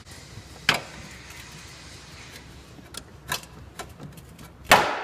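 Plastic cowl trim and its retaining clips being pried and lifted off: a sharp knock about two-thirds of a second in, a few lighter clicks between three and four seconds, and the loudest knock near the end, trailing a brief scraping rustle.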